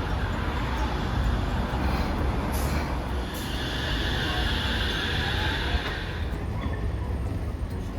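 A Hiroshima Electric Railway streetcar running on street track, with a steady rumble. A higher, steady ringing tone rises over it for about three seconds in the middle.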